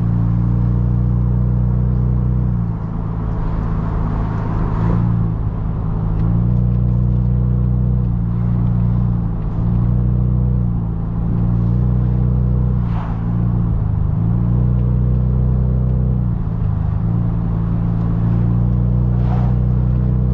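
Car engine and road noise heard inside the cabin while driving: a steady low drone that dips and shifts briefly a few times, as with throttle or gear changes.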